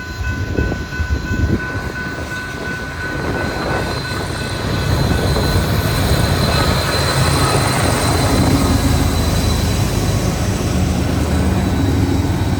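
Freight train passing at a road crossing. Wheels knock on the rail joints in the first couple of seconds, then a deep diesel engine rumble builds from about five seconds in as a locomotive comes by, with steady high ringing tones over it.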